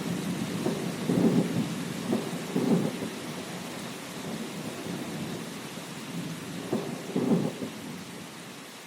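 Thunder rumbling over steady rain. The rumble swells a few times, about a second in, near three seconds and again around seven seconds, then dies away toward the end.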